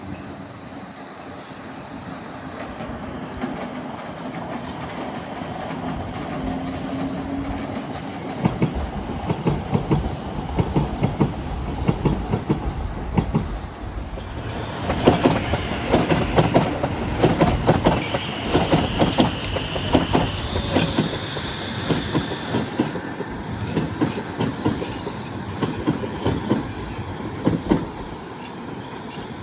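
Stockholm Metro train running on the track: a motor hum rises a little at first, then the wheels click rhythmically over the rail joints, getting louder about halfway through, with a brief high wheel squeal partway along.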